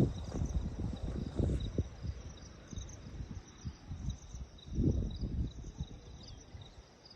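Outdoor ambience: insects chirping in short, repeated high pulses over irregular low rumbling thumps, strongest near the start and again about five seconds in.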